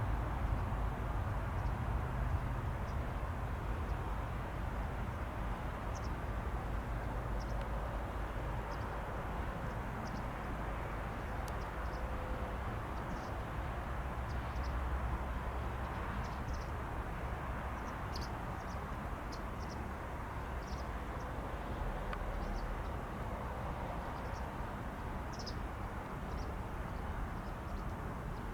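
Outdoor ambience at an airfield: a steady low rumble with short, high bird chirps scattered throughout.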